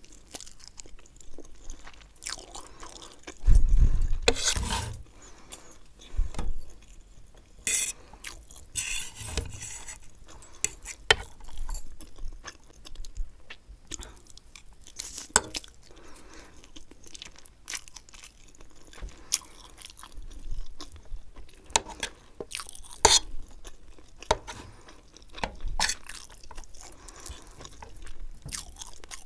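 Close-miked chewing of masala Maggi noodles and fried egg, with short clicks and scrapes of a fork on the plate. A loud low thump comes about three and a half seconds in.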